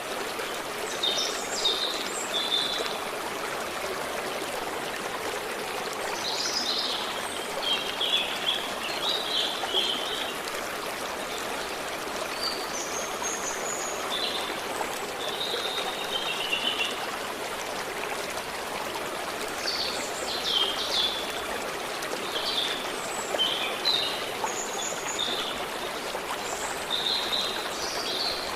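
A stream running steadily, with a songbird singing short, high phrases every few seconds over the flowing water.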